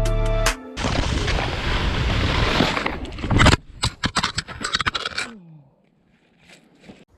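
Snowboard sliding and scraping over snow, then a rapid series of knocks and clatters as the helmet-mounted GoPro is torn off in a hard landing and tumbles, after which it goes much quieter.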